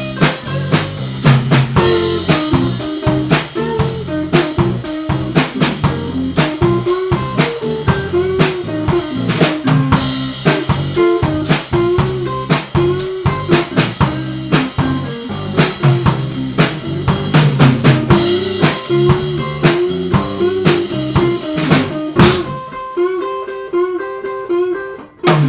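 Live band playing an instrumental passage: drum kit, electric guitar and bass. About three seconds before the end the drums stop and the guitar and bass riff carries on alone, then the full band comes back in.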